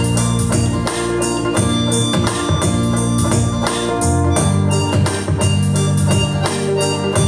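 Instrumental music by a small band: sustained electronic-organ chords over a bass line, with a steady drum and tambourine beat.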